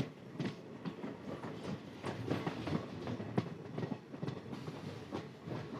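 Passenger train running along the track, with irregular clicks and clatter from the wheels over the rails.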